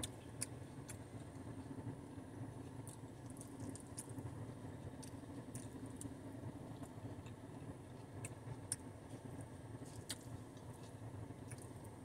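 Faint chewing and mouth sounds of someone eating a rice-and-bean bowl, with scattered light clicks from a plastic fork against the fiber bowl, over a steady low background hum inside a car.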